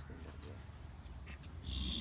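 A short animal cry near the end, over a steady low hum.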